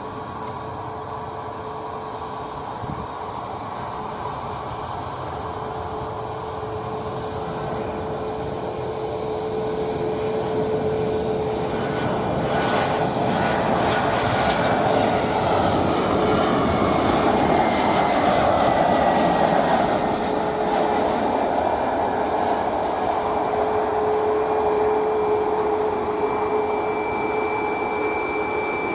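Boeing 737-800 jet airliner arriving, its CFM56 turbofans growing steadily louder as it approaches and passes, loudest about two-thirds of the way through. A steady hum runs underneath, and a high whine slowly falls in pitch as it goes by.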